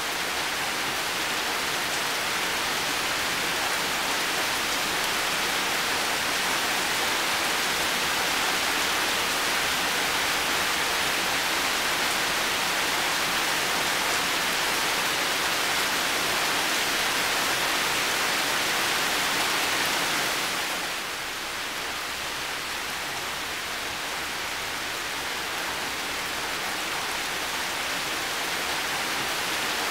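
Heavy rain falling steadily, an even hiss. About two-thirds of the way through it eases slightly, the higher part of the hiss dropping, then slowly builds again.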